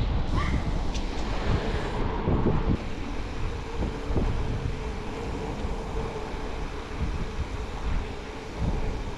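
Wind buffeting the microphone during a ride, with steady low road rumble and a faint steady hum in the first half.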